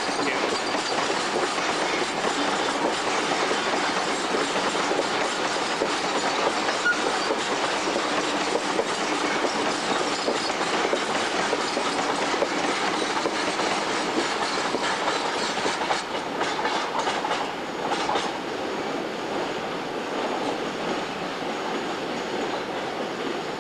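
Freight train passing at speed, a long steady rush of wagons with their wheels clicking over the rail joints; a run of sharper clicks comes about two-thirds of the way through, then the sound eases a little.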